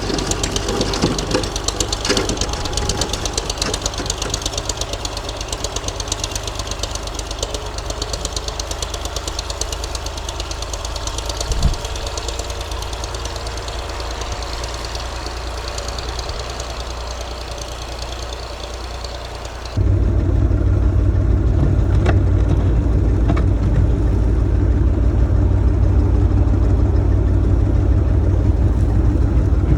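Old diesel tractor engine running steadily with an even, chugging pulse while plowing snow. About two-thirds of the way in, the sound changes abruptly and becomes louder and deeper.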